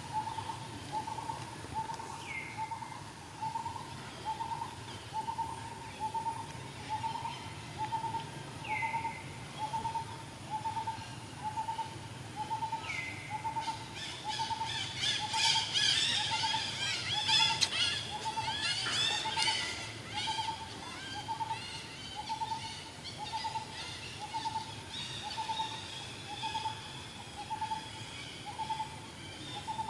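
A bird repeating a single short hooting note a little more than once a second. A burst of higher chirps and squeaks joins in around the middle.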